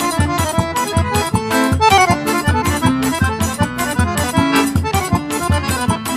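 Accordion-led festa junina music, instrumental, over a steady driving beat, with a quick falling run of notes about two seconds in.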